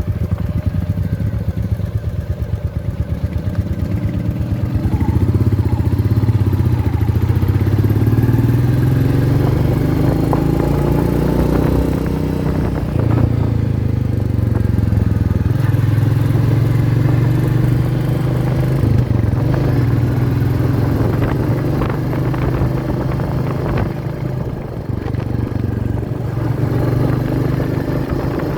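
Royal Enfield Meteor 350's single-cylinder engine running steadily, its pitch rising and dropping back several times as it pulls through the revs.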